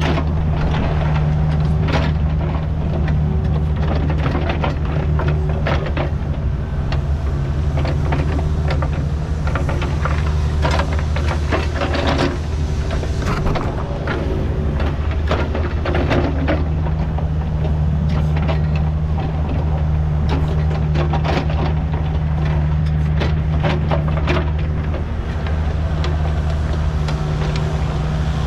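Kubota U55 mini excavator's diesel engine running steadily under working load, with frequent short clanks and scrapes from the bucket digging and moving dirt. The engine note eases briefly twice, about halfway through and again near the end.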